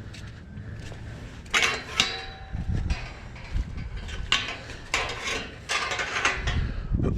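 Irregular clanking and rattling, like metal knocking on metal, in a run of short bursts starting about a second and a half in.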